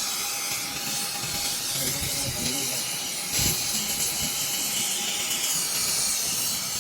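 Gas welding torch flame hissing steadily, with a brief knock about halfway through.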